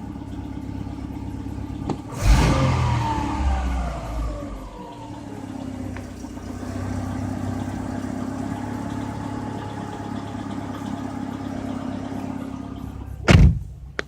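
Car engine, its oil treated with X-1R additive, revved once about two seconds in and falling back to a steady idle. A single loud thump comes near the end.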